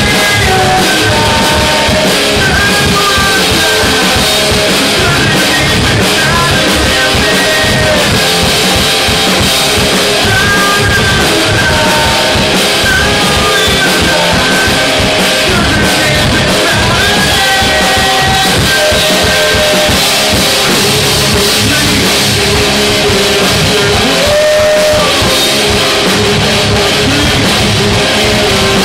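Rock band playing live at full volume: drum kit pounding steadily under electric guitars, with a sung or lead melody line weaving over the top.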